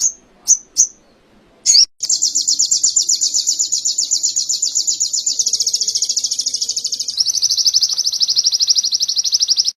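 Crimson sunbird (sogok ontong) singing canary-style song: a few short high chirps, then from about two seconds in a long, rapid trill of high notes, about ten a second, that steps slightly lower and faster about seven seconds in.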